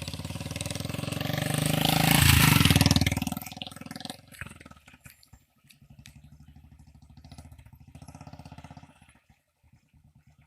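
Royal Enfield Classic 350's single-cylinder engine, with a replacement exhaust fitted, revved once. It rises to a peak about two to three seconds in, then drops back to a steady pulsing idle, with a brief break near the end.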